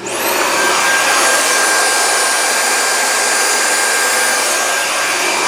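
Panasonic MC-3920 canister vacuum cleaner switched on, its motor spinning up with a quickly rising whine and then running steadily at full speed.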